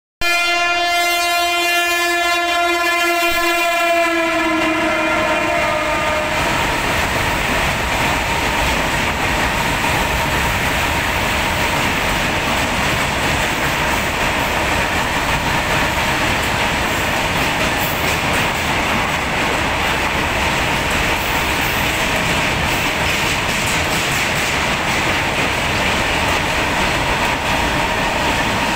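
Indian Railways WAG-9 electric locomotive sounding its air horn as it approaches, one long blast for about five seconds, its pitch dropping slightly as the locomotive passes. Then the steady rumble and rattle of open freight wagons rolling past, wheels clicking over the rail joints.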